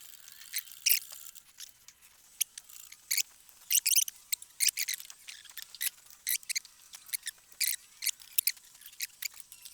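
Workshop engine crane squeaking in many short, irregular high-pitched chirps as it is moved with the engine hanging from it.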